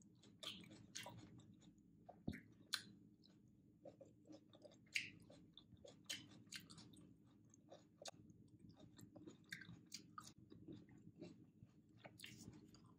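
A person chewing a mouthful of food close to the microphone: faint, irregular mouth clicks throughout, over a low steady hum.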